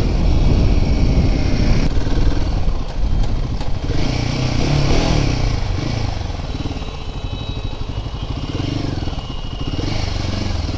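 Royal Enfield Himalayan 450's single-cylinder engine and exhaust running, loudest in the first two seconds, with a rev that rises and falls about four seconds in, then settling to a lower, steadier note.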